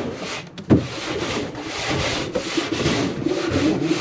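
Repeated scraping strokes on wood, a pigeon-loft scraper working the floor or perches, with a single sharp knock about a second in.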